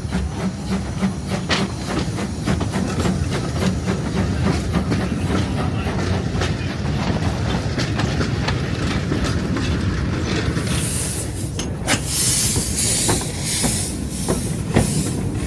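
Narrow-gauge steam locomotive and its train running past, with a steady rumble and many sharp clicks from the wheels on the track. About two-thirds of the way through, loud hissing of steam comes in repeated pulses for several seconds.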